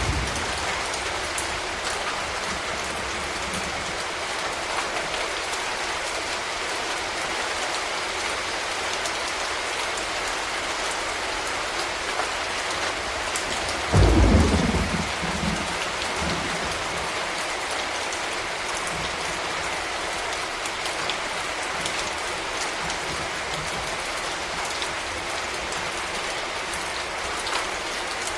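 Steady rain falling on a street, an even hiss with scattered drips. About halfway through comes one short, loud, low rumble of thunder that dies away within a couple of seconds.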